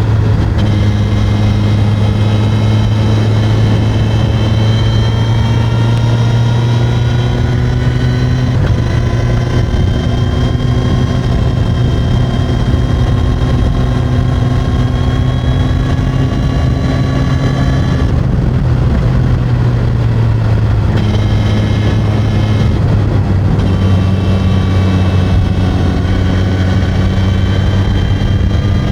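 Suzuki GSX-S1000 inline-four engine with its stock exhaust, running steadily under way. The pitch creeps slowly upward with a few brief dips and steps, about a third of the way in and again around two-thirds in.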